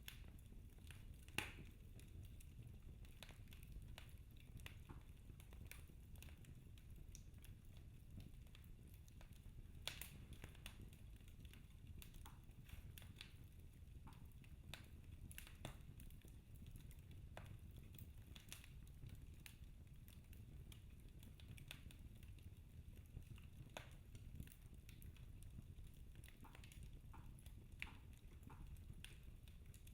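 Wood fire crackling quietly in a fireplace: scattered, irregular pops and snaps over a low steady rumble, with a sharper pop about a second and a half in.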